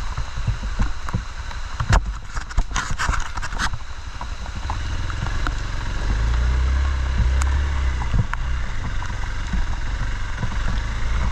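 Off-road motorcycle engine running, with a burst of clattering and scraping knocks about two seconds in. The engine grows louder about six seconds in.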